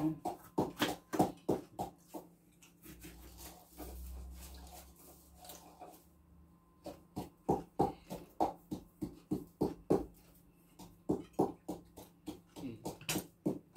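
Crunchy chewing of a crispy snack: short crunches about two a second, pausing for a few seconds after the first two seconds, then going on again.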